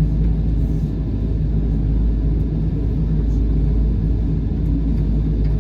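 Steady low rumble of a Boeing 777-300's engines and airframe, heard from an economy seat inside the cabin.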